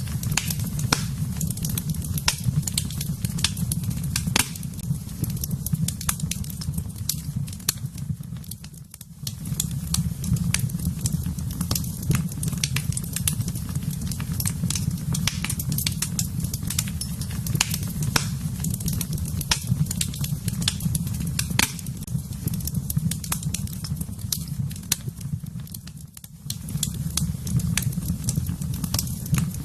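Wood fire in a fireplace crackling, with frequent sharp pops and snaps over a steady low rumble of the flames. The sound briefly dips twice.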